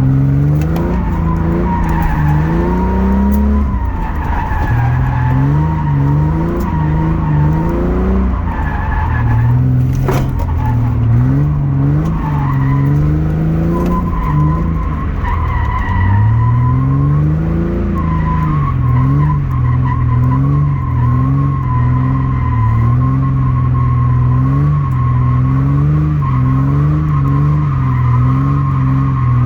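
Straight-piped V6 Ford Mustang engine revving up and down repeatedly as the car drifts in snow, its pitch settling into a fairly steady high run in the second half. A single sharp knock sounds about ten seconds in.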